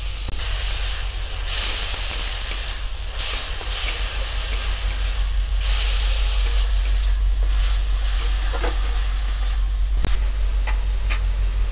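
Tomato paste and ground onion masala sizzling in hot mustard oil in a steel kadai, the hiss swelling and fading in waves as it is stirred with a metal spatula, over a steady low hum.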